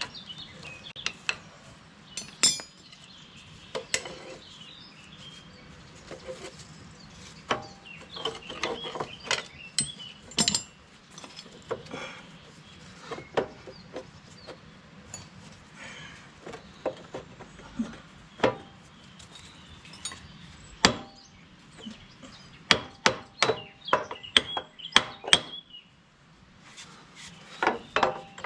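Irregular sharp metal clinks and knocks from hand tools and bolts being handled on a backhoe's steel frame during hose fitting, coming in scattered clusters with a quick run of knocks toward the end.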